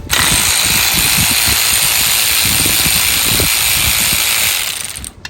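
Compressed-air tool running in one long burst of loud hiss with irregular rattling under it, starting after a brief pause and cutting off after about five seconds.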